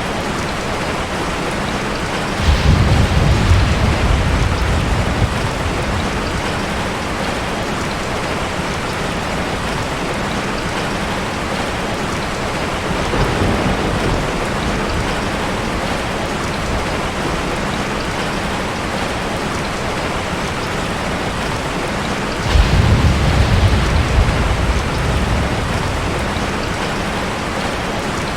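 Steady rain falling, with a roll of thunder rumbling for about three seconds a couple of seconds in and another near the end, and a fainter rumble midway.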